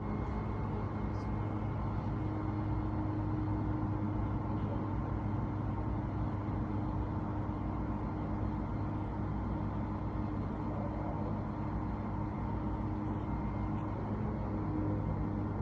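Steady low hum of running machinery, holding a constant pitch throughout.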